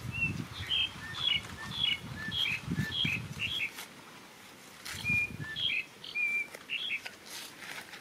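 A bird calling a quick series of short chirps, about two a second, that stops for a moment a little past the middle and then picks up again. Soft rustling from close handling sounds underneath.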